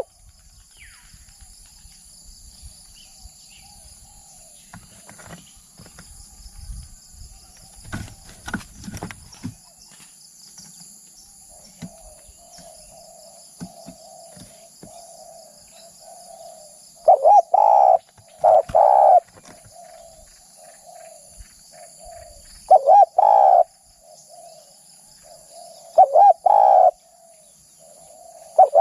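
Spotted dove cooing: a soft, steady burbling coo runs from about halfway, broken by loud two-part coo phrases about 17 s in, again around 23 and 26 s, and right at the end. A few brief knocks come about 8 to 9 seconds in.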